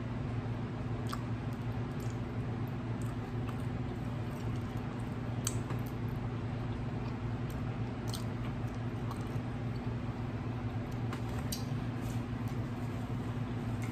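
A person chewing rotisserie chicken close to the microphone, with scattered wet mouth smacks, over a steady low hum.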